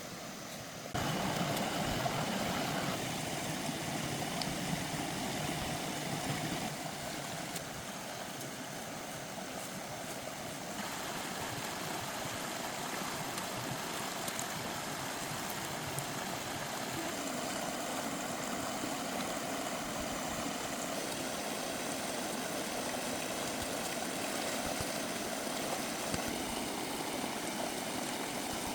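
Steady rush of flowing stream water, stepping up in level about a second in and shifting a few more times.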